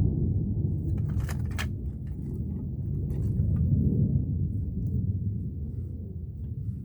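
Steady low rumble of wind on the microphone, with a few light knocks of split oak firewood being set in place about a second in and again near three seconds.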